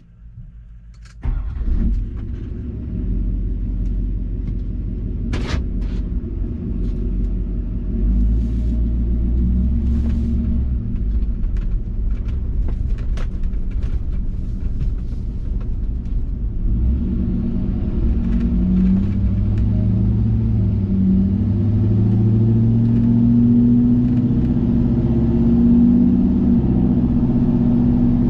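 2007 Chevy Silverado 2500HD's 6.6 L LBZ Duramax turbo-diesel V8, straight-piped from the turbo back, cranking and firing about a second in, then idling loud and deep. About 17 seconds in its note rises and shifts as the truck pulls away under load.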